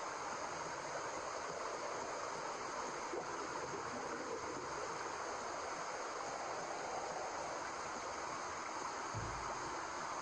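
Steady white noise for a baby's sleep: an even, unbroken hiss like rushing water, with no beat or change.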